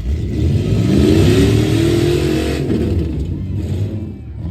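Demolition derby car engines revving hard as the cars get back on the gas after the restart. The pitch rises for about two and a half seconds, then drops off.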